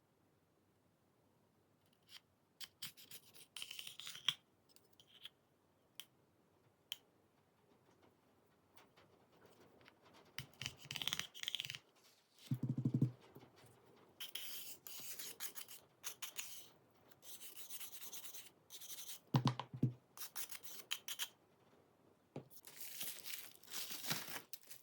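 Small hand work on a smartphone: scattered light clicks and bursts of scraping and rubbing as tools and parts are handled, with a couple of dull knocks about halfway through.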